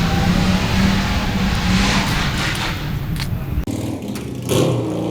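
Car engine running steadily with road and wind rush over it while driving. About three and a half seconds in the sound cuts abruptly to a different, lower engine note, with a short rush of air soon after.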